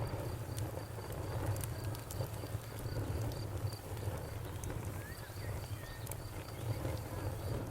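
Campfire burning: a steady low rumble of flames with scattered sharp crackles and pops. A high, steadily pulsing insect chirp runs behind it.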